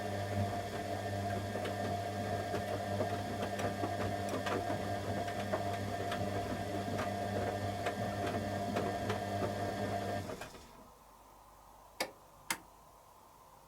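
Candy Aquamatic 100F washing machine's drum motor turning the drum in a wash tumble during the heating stage, a steady motor hum with light ticking, which stops about ten seconds in. Two sharp clicks follow near the end.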